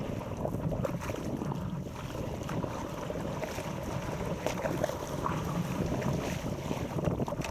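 Wind buffeting the camera microphone, over water splashing and lapping against an inflatable stand-up paddleboard, with a scatter of small irregular splashes.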